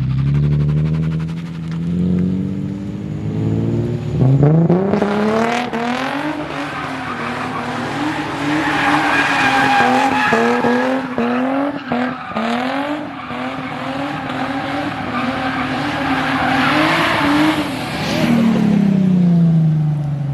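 Car engine revving hard while the tyres squeal in a drift. The revs climb about four seconds in, bounce at high rpm with the throttle for a long stretch, then fall away near the end.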